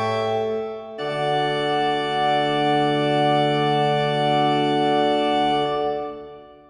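Organ music in held chords: a new chord comes in about a second in and is held without decay, then fades out near the end as the piece closes.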